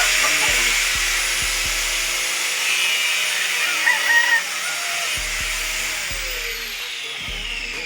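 Small electric grinder running, grinding down a rooster's spur. Its pitch slides lower over the last couple of seconds.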